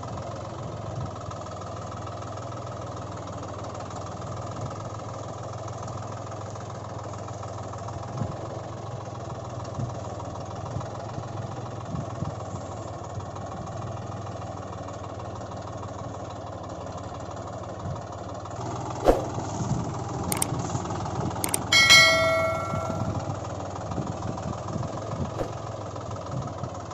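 Tractor engine idling steadily with a low hum. About 19 and 22 seconds in come a few sharp clicks, the last followed by a brief bell-like metallic ring.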